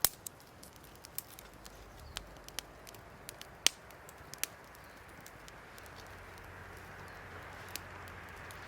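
Small wood fire in a Firebox stove crackling, with sharp irregular pops over a soft hiss that grows a little stronger in the second half.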